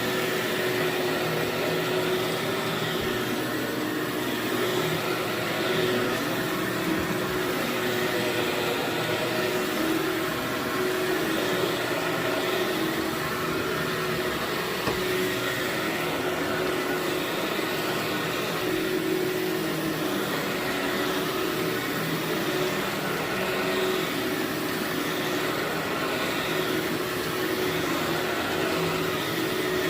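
Vacuum cleaner running steadily on carpet, a constant whooshing with a steady whine.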